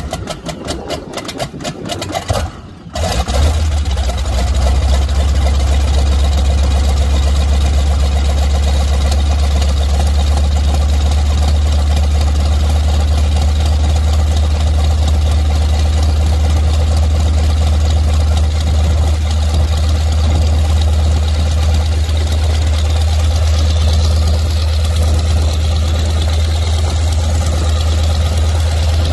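Nanchang CJ-6's nine-cylinder radial engine starting: a few seconds of uneven firing strokes as it cranks, then it catches about three seconds in and settles into a steady idle.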